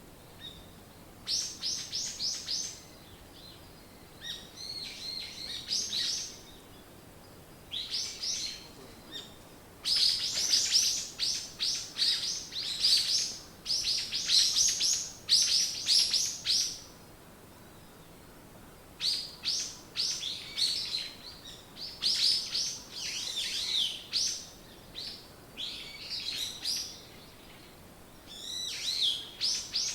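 Songbirds singing: phrases of quick, high chirps, each a second or a few long, with short pauses between them.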